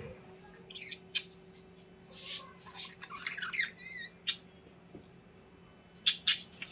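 A bird squawking and chirping in short, sharp calls, with a rippling trill about four seconds in and two loud squawks near the end. A steady low hum runs underneath.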